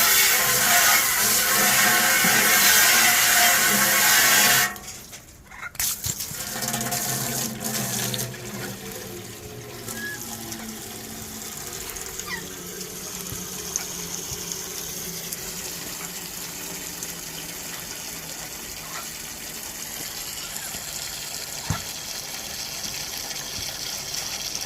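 Garden hose spraying water hard onto wire parrot cages, washing out leftover seed and droppings; the spray cuts off suddenly about five seconds in, leaving a much softer steady hiss of water.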